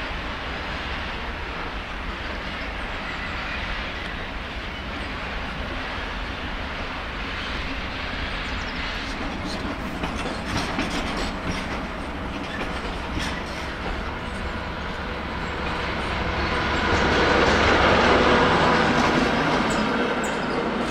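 Freight wagons rolling along the tracks: a steady rumble with wheels clicking over rail joints. Near the end it grows louder, with a ringing metallic tone over the noise.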